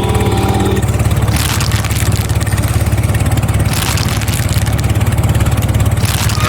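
Vehicle engine running steadily with a fast, even rattling pulse, with three short bursts of hiss.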